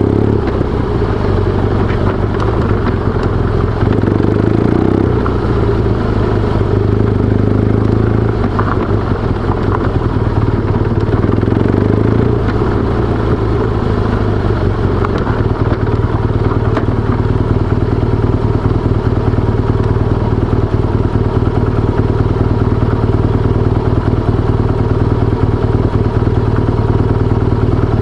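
BMW R1200GS air/oil-cooled boxer-twin engine running steadily while the motorcycle is ridden.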